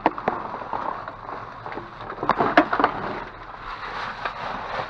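Knocks, clicks and rattles of goods being handled and shifted around in a dumpster, with a cluster of sharper clacks about halfway through.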